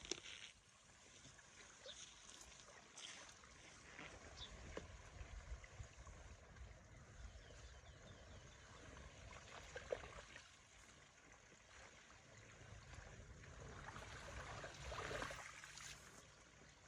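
Faint running water, trickling and gurgling, under a low steady rumble, with a few small knocks and a louder swell of rushing near the end.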